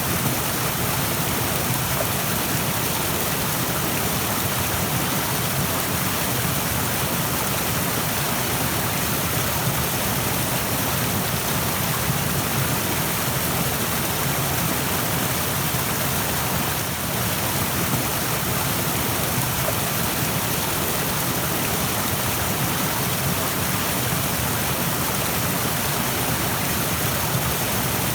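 Steady rushing of stream water, an even unbroken wash of noise.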